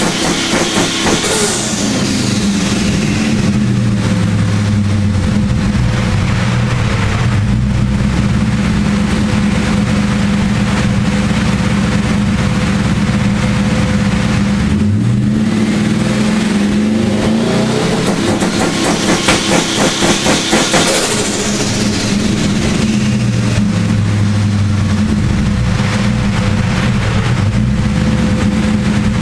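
Twin-turbocharged V8 with twin 61 mm turbos running on an SCT two-step launch limiter: it idles, then twice revs up and is held at the limit, a rising turbo whistle building each time and the exhaust stuttering while on the limiter, before settling back.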